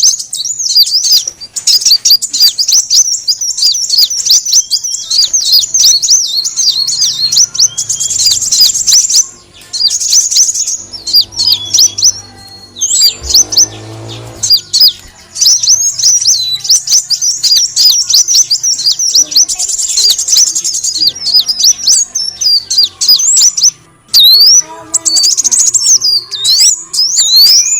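A sunbird (the kolibri wulung of Indonesian bird-keepers) giving rapid, high-pitched twittering and chirping calls, almost without a break, with a short lull about halfway through. This is a recording played as a lure call to attract the birds.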